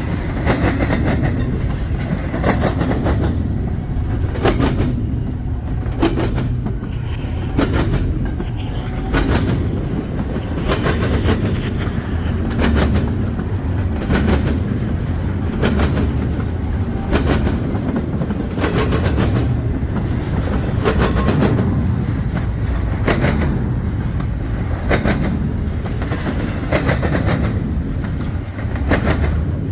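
Freight train cars rolling past at slow speed: a steady low rumble, with the wheels clacking over rail joints in closely spaced pairs, a pair about every second or two.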